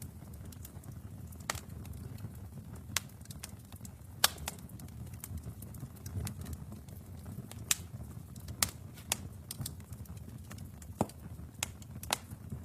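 Wood fire in a fireplace burning with a low steady rumble and irregular sharp pops and crackles of the logs, the loudest about four seconds in.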